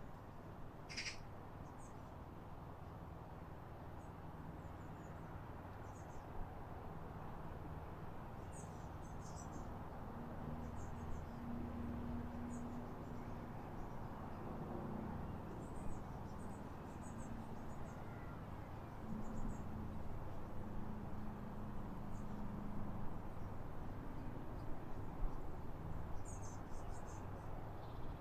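Short, high-pitched chirps of small birds, coming singly and in quick little groups every few seconds over a steady low background rumble.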